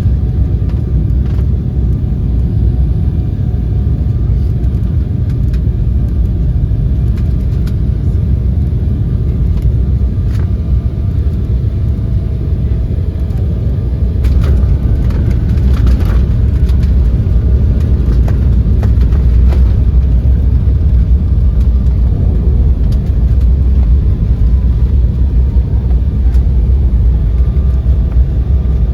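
Steady low rumble inside a jet airliner's cabin as it rolls on the ground after landing, with a faint engine whine and a few light rattles. The loudness rises slightly about halfway through.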